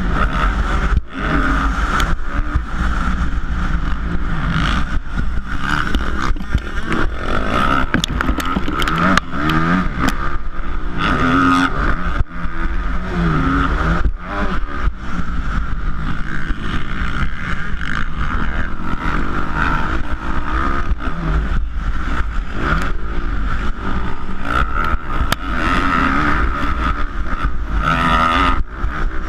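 Motocross bike engines in a 450-class race, revving up and down again and again as the throttle opens and closes, with frequent short knocks and clatter.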